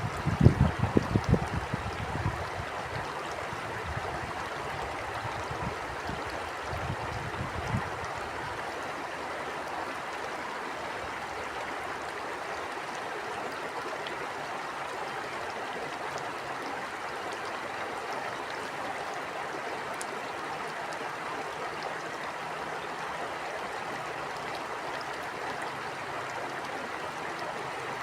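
Stream water flowing steadily, with wind buffeting the microphone in gusts over the first several seconds. The gusts are loudest in the first two seconds and die away by about eight seconds in.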